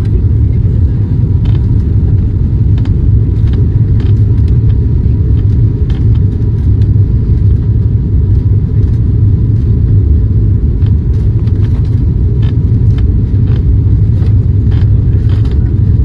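Steady, loud low drone of an ATR turboprop's engines and propellers heard inside the passenger cabin, with faint scattered clicks over it.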